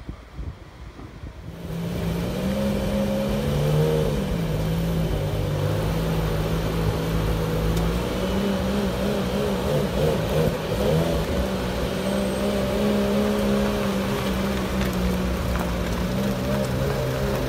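Aston Martin One-77's 7.3-litre V12 running at low revs as the car creeps forward, rising briefly in pitch about three seconds in and then holding steady.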